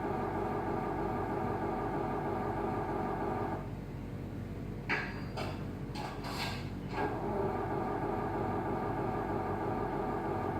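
Small electric motor in a radio-controlled Scania model truck, whirring steadily in runs of a few seconds. It stops a little after three seconds in, then starts again about seven seconds in, with short swishing noises in the gap.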